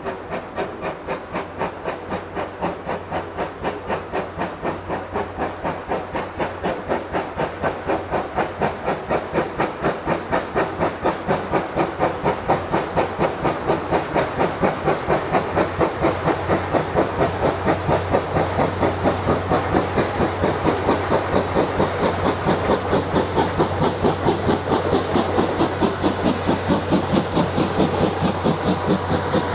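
Steam locomotive C11 207 working a train, its exhaust beating in a fast, even rhythm of chuffs that grow steadily louder as it approaches.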